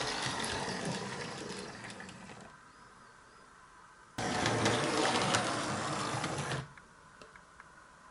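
Small electric motor of a 00 gauge model locomotive whirring as it runs along the track, fading away, then starting up abruptly about four seconds in and stopping dead about two and a half seconds later, as the track's diodes cut the power.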